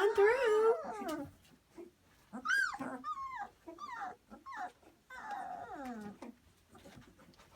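Pyrenean Mastiff puppies, about two and a half weeks old, whining and crying. A loud cry comes at the start, then a string of short high cries, and a longer cry that falls in pitch about two-thirds of the way through.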